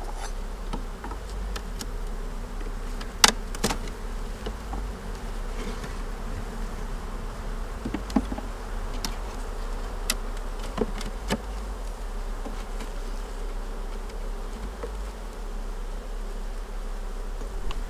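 Honeybees buzzing steadily around an open hive, with scattered sharp clicks and knocks of wooden hive frames being handled, the loudest about three seconds in.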